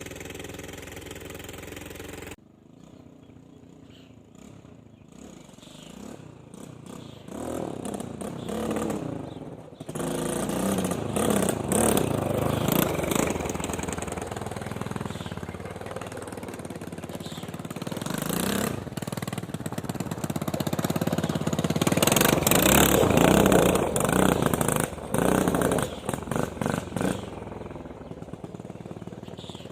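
250cc quad bike engine running rough, its revs rising and falling unevenly. The owner reads this as bogging down, even with a new spark plug fitted. It drops off sharply about two seconds in, builds back up, is loudest a little after the middle, and eases near the end.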